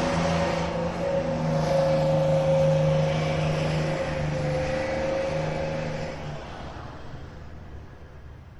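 A vehicle engine running at a steady pitch, fading away over the last couple of seconds.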